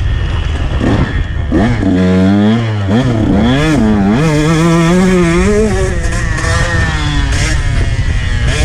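2019 KTM 125 two-stroke motocross bike engine revving as it is ridden, its pitch rising and falling repeatedly with the throttle, then holding steadier near the end. Wind rumbles on the microphone underneath.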